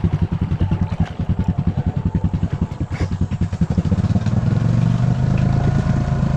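Honda Rancher 420 ATV's single-cylinder engine running after a restart in creek water, firing in even pulses at a rough idle. It speeds up to a steadier, louder run about four seconds in. The engine has been reluctant to idle and keeps stalling in the water.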